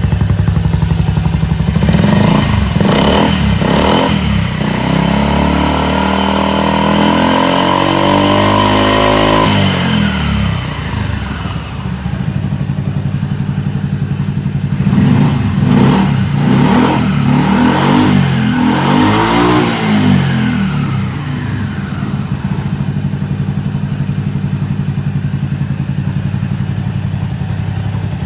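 Suzuki Skywave 250S (CJ43A) scooter engine running through an aftermarket muffler, idling and being revved. Quick blips come about two to four seconds in, then a long rise in revs that drops back about ten seconds in. Another run of revs follows from about fifteen to twenty-one seconds in, then it settles back to a steady idle.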